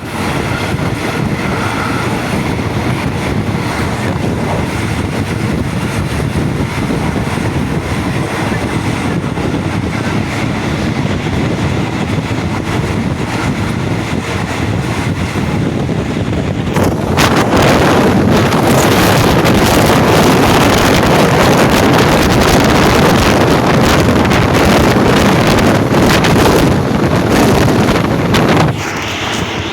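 Steady rush of wind buffeting the microphone over the running noise of a moving train. It grows louder a little past halfway and eases just before the end.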